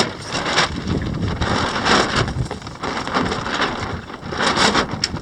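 Strong wind buffeting the microphone in irregular gusts aboard a small sailing catamaran, in a fresh breeze of 17 to 22 knots.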